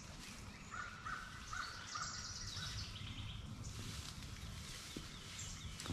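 Faint woodland ambience: a bird calls a quick run of about six short, evenly repeated notes in the first half, with fainter, higher bird chirps behind it.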